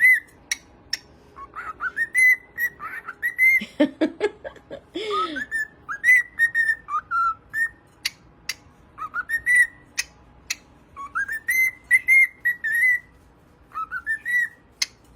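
Cockatiel whistling: runs of short whistles that rise and hold high, with sharp clicks between them and a couple of lower calls about four and five seconds in.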